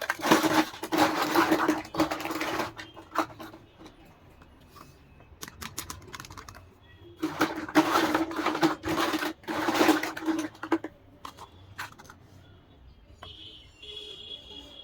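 Small plastic toy parts and packaging being handled: two bouts of rustling and scraping with scattered light clicks between them. Faint high chirps sound near the end.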